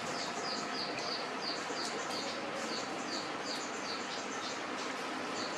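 A bird chirping over and over, short high falling chirps at about three a second, over a steady background hiss.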